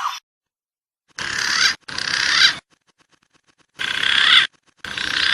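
Four short, rasping bird calls from a recorded lure track for wild pigeons and doves, each cut in and out sharply with silence between.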